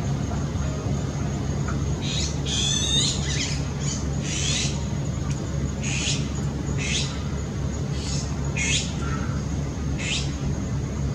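A bird giving short, sharp calls about once a second, with a denser run of calls around two to three seconds in, over a steady low hum.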